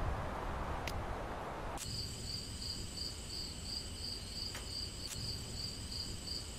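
Crickets trilling at dusk: a steady high-pitched chirring that pulses about three times a second, coming in abruptly after a couple of seconds of soft outdoor air noise.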